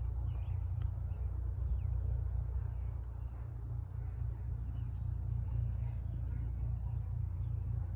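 Small songbirds chirping faintly and intermittently over a steady low rumble, with one sharper, higher chirp about halfway through.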